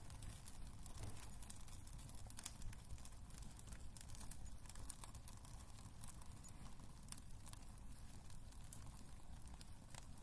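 Wood fire crackling in a fireplace: scattered sharp pops and snaps over a low, steady rumble of burning.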